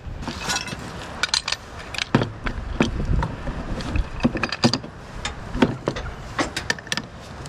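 Irregular clicks and knocks of metal parts being handled and fitted by hand as a replacement part is worked into a lawn tractor's mower deck.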